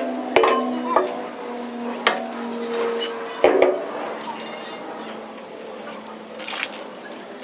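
Steel parts clanking together: a handful of sharp metallic knocks over the first four seconds, each ringing on afterwards.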